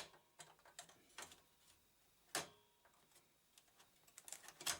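A few scattered sharp clicks and taps of computer hardware being handled as a part is removed from the motherboard, with a cluster of clicks near the end.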